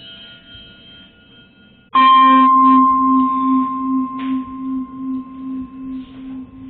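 A struck metal percussion instrument rings. Faint ringing from an earlier stroke is fading, then about two seconds in a new stroke sets off a long, loud ring: a clear high tone over a lower hum that wavers about three times a second, slowly dying away.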